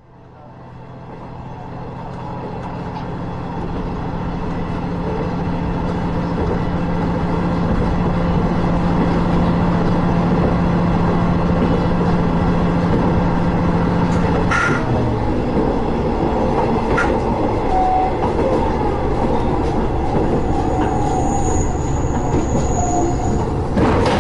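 Train running on the rails, its noise swelling over the first several seconds, with a steady low hum that cuts off about halfway, two sharp knocks, and a thin high squeal near the end.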